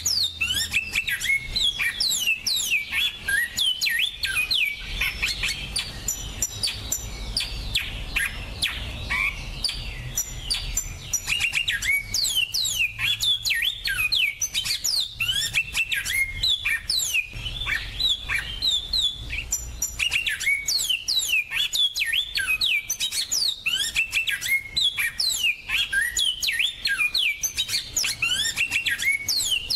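Finch song recorded close up: a continuous, rapid twittering of quick, high, down-slurred notes with hardly a pause, as used for training songbirds.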